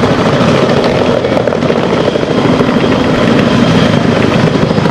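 Military helicopter rotors and turbines running loud and close, a dense steady chop.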